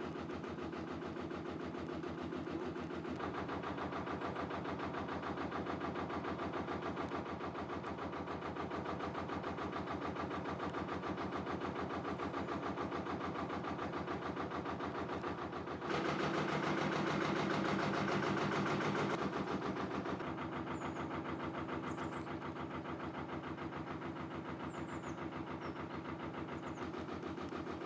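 Narrowboat's diesel engine running steadily with an even chugging beat, growing louder for a few seconds about two-thirds of the way through before settling back.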